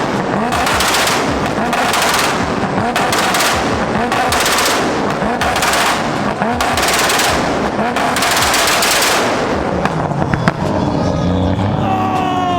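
Car engine held on a two-step launch-control rev limiter, its exhaust firing rapid machine-gun-like pops and bangs in repeated bursts. The popping stops about ten seconds in, and a steadier sound with gliding pitch follows near the end.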